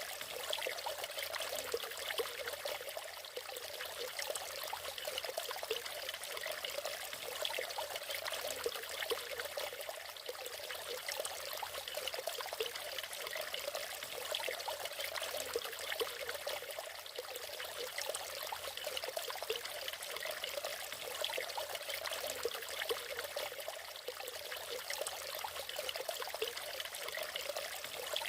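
Natural waterfall: water pouring and splashing steadily, a continuous trickling rush with little low rumble.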